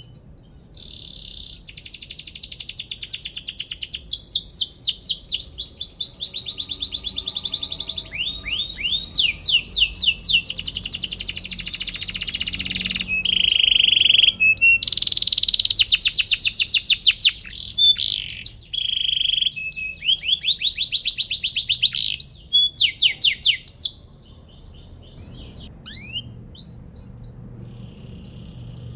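Domestic canary singing a long song of fast trills, one run of rapidly repeated notes after another at shifting pitches. For the last few seconds the song turns softer, with scattered notes.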